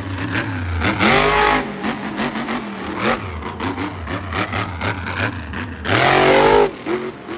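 Monster truck engine revving hard and repeatedly, its pitch sweeping up and down, with two loudest surges of full throttle, about a second in and about six seconds in, and shorter throttle blips between.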